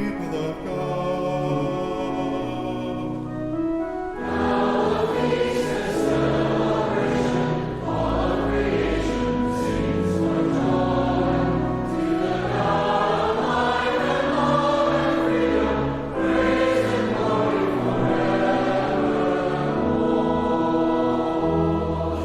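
Church congregation singing the liturgy's hymn of praise, with instrumental accompaniment and deep sustained bass notes. The first few seconds are mostly accompaniment, and the full singing swells in about four seconds in.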